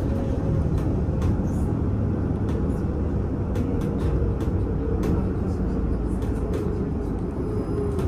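Inside a VMZ Avangard trolleybus on the move: steady running and road noise with a low rumble and a faint tone that slowly falls in pitch. Scattered short clicks and rattles sound throughout.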